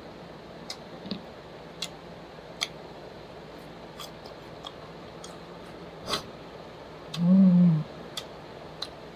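Mouth sounds of someone eating fried chicken: scattered sharp lip smacks and clicks of chewing. About seven seconds in comes a short 'mmm' hum that rises and falls, the loudest sound.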